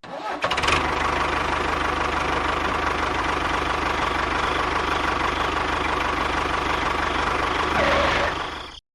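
A small motor running steadily with a fast, even rattle. It starts abruptly and cuts off suddenly near the end.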